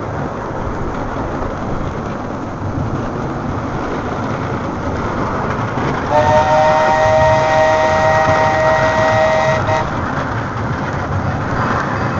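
Old steam train running along its track with a steady rumble; about halfway through, its whistle sounds one steady chord of several tones for about three and a half seconds.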